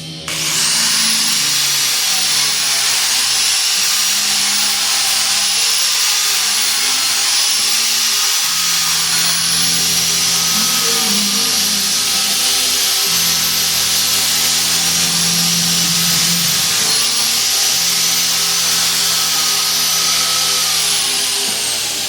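Power tool shaving rubber off a garden tractor tire, starting abruptly with a high whine. The pitch dips and recovers again and again as it bogs under the cut, then winds down near the end.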